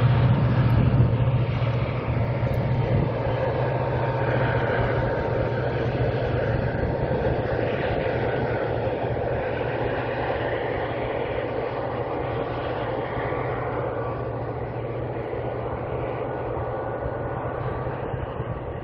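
Diesel locomotive hauling a freight train: a low engine hum, strongest in the first couple of seconds, gives way to the steady rumble of the freight wagons rolling over the rails, slowly fading as the train moves away.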